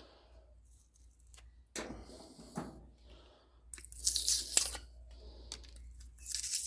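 Irregular tearing and scraping as insulation and debris are pulled off a microwave oven transformer's copper windings by hand. The loudest rasps come about four seconds in and again near the end.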